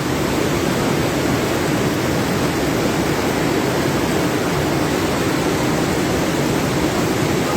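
Steady, loud rush of a flooded river overflowing at a bridge.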